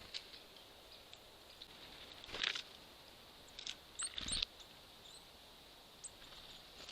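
Small birds at a squirrel feeder full of seeds and nuts: scattered light pecking taps and clicks, with two louder clattering knocks, about two and a half and four seconds in, the second with a dull thud.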